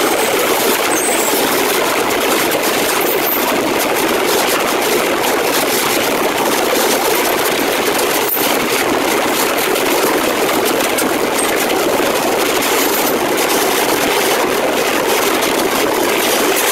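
Steady loud rushing noise of a moving passenger train heard from outside its coach: wind and wheels on the rails, close beside a container freight train on the next track.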